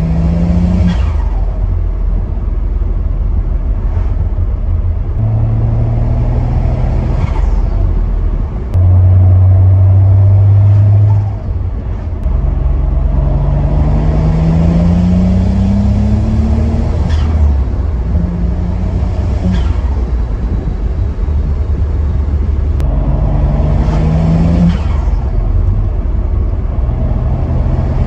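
BMW 335i's N54 twin-turbo inline-six pulling hard several times, its note rising through each pull, with turbo flutter on lift-off because the blow-off valve has been replaced by a block-off plate. A loud, steady low drone stands out for about two seconds near the ten-second mark.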